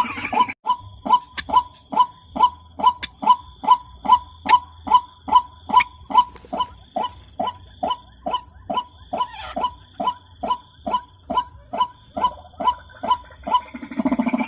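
White-breasted waterhen calling: a steady run of short, repeated notes, about three a second, keeping the same pitch and pace throughout.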